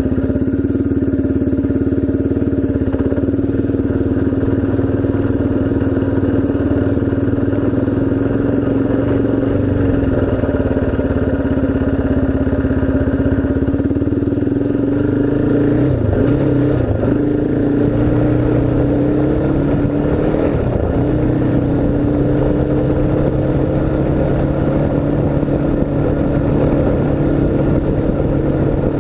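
Dirt bike or ATV engine running at steady revs under way, the pitch wavering briefly with throttle changes about halfway through and again a few seconds later before settling slightly higher.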